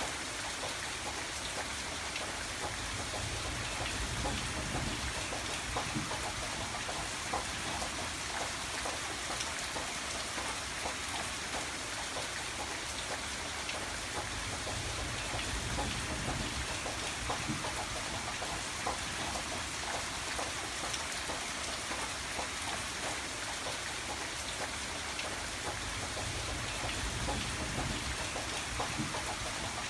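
Steady rain: an even hiss dotted with the ticks of single drops. A soft low rumble swells and fades about three times.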